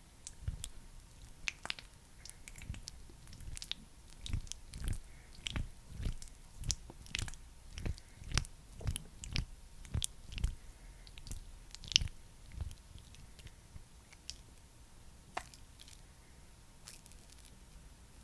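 Close-miked sticky, squishy pats and clicks of a thick skincare product being patted and worked. They come about two a second in a steady rhythm through the middle, and are sparser near the start and end.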